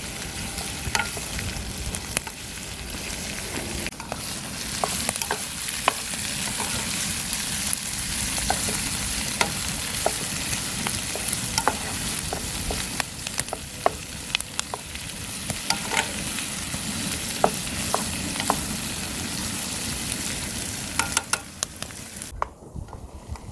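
Food sizzling as it is stir-fried in a pan, with frequent clicks and taps of a utensil against the pan. The sizzle cuts off suddenly near the end.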